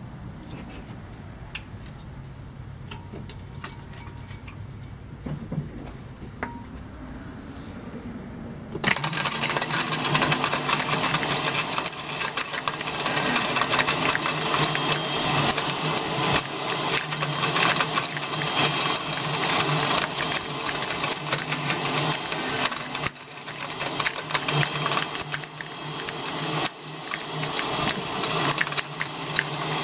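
An Oster blender switches on about nine seconds in and runs at full power, grinding and rattling as it chops up a plastic RC helicopter with its batteries and motors. Before that there is only a low hum and a few light clicks.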